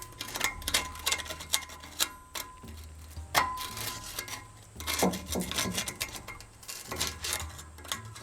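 Irregular clicks and metal knocks of hand tools at work, several a second, some with a short ring, over faint background music.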